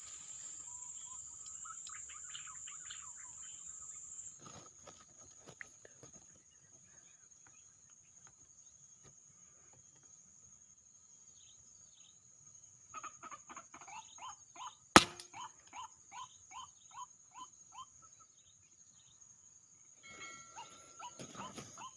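A single sharp shot from a PCP air rifle, about two-thirds of the way through, fired with no pellet loaded. Around it a bird gives a run of short repeated calls, about two a second, over a steady high insect buzz.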